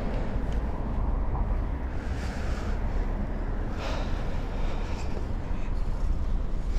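Steady low rumble of wind buffeting the microphone, with road noise, during a bicycle ride. Short hissing swells come about two, four and seven seconds in.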